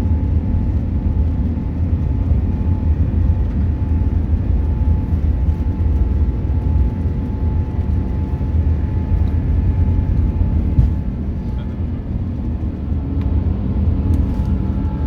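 Airbus A350-900 cabin noise heard from a seat: a steady low rumble of the Rolls-Royce Trent XWB engines and airflow, with a faint steady whine above it.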